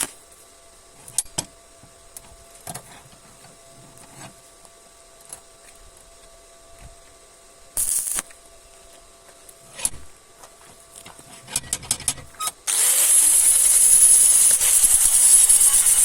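Scattered clicks and handling knocks, with a short hiss of air about eight seconds in. Near the end a compressed-air spray gun starts a steady, loud, high hiss.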